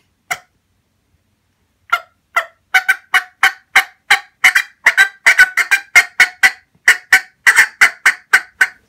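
Turkey call sounding cutting: a single sharp cluck, a pause, then a long run of loud, fast, irregular clucks, about three or four a second. It imitates an excited hen and is used to fire up a tom that has hung up out of range so that he comes the rest of the way.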